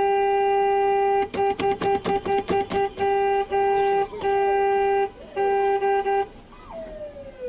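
A car horn sounding in long held blasts, broken by a run of rapid short honks between about one and three seconds in. It stops a little after six seconds and sounds again near the end.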